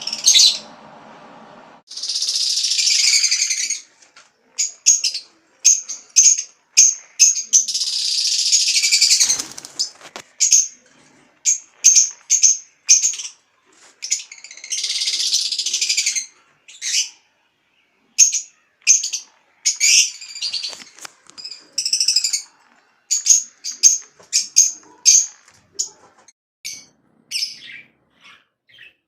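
Caged lovebirds chirping: a stream of short, high chirps broken by several longer bouts of high chattering, each lasting one to two seconds.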